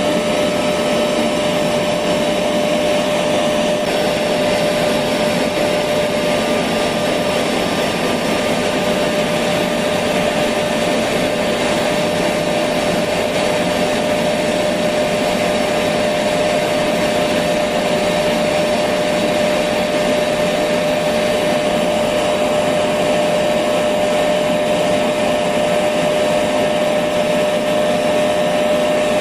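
Electric vacuum cleaner running steadily: an even rushing whoosh with a constant motor whine, unchanging throughout.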